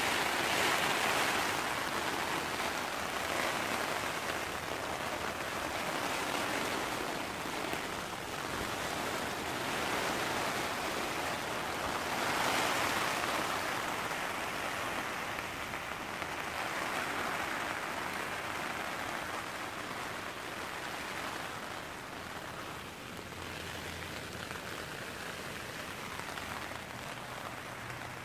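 Rain falling on a tent's fly sheet, heard from inside the tent, a steady hiss that swells and eases every few seconds.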